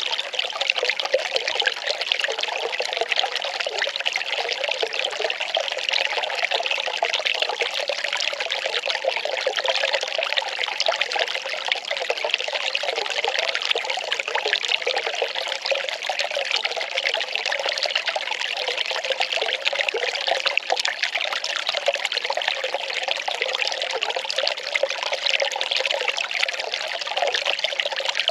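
Well water pouring and splashing steadily in a continuous trickling stream.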